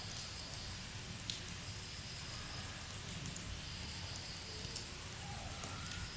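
Wood fire burning in a fireplace: logs crackling with scattered sharp pops over a steady low rumble of flame.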